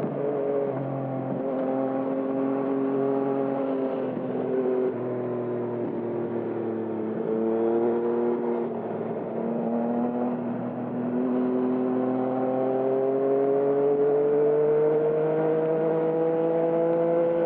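2020 Yamaha MT-09's three-cylinder engine running through a Termignoni aftermarket exhaust while riding. The revs rise and fall with the throttle, with a few sudden steps in pitch, then climb slowly and steadily over the last several seconds.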